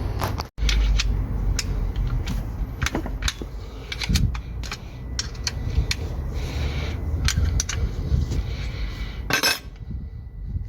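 Metal hand tools clinking and tapping on engine fittings as nuts are undone: a run of irregular sharp clicks over a low rumble, with a denser rattle near the end.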